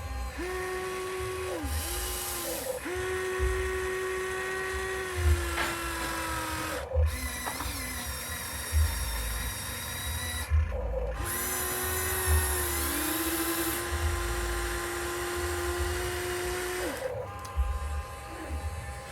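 Small electric gear motors of radio-controlled scale construction models whining as they work, starting and stopping, with the pitch sagging under load and two stretches of hiss.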